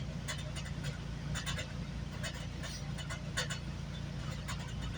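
Steady low rumble inside a GO Transit passenger coach, with scattered light clicks and rattles.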